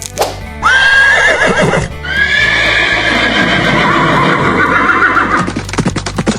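Horse whinnying twice in long, wavering calls, then hooves clip-clopping in quick beats near the end, over background music.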